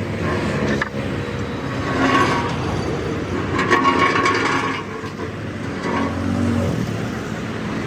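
Road traffic: vehicle engines running, with a few brief louder passes over the steady hum.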